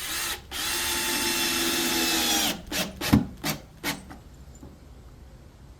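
Power drill driving a screw into the wooden subfloor patch: a short trigger pull, then a steady run of about two seconds as the screw goes in, then several quick bursts with a sharp knock as the screw is seated.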